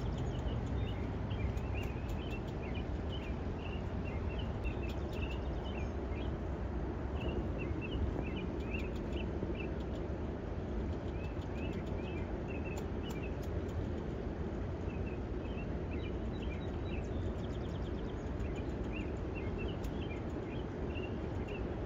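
Small birds chirping in many short, quick calls over a steady low background rumble.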